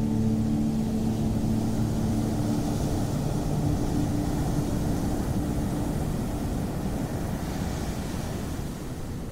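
Ocean surf washing in a deep, steady noise, with the hiss of the wash swelling a couple of times. A sustained musical drone fades out in the first few seconds.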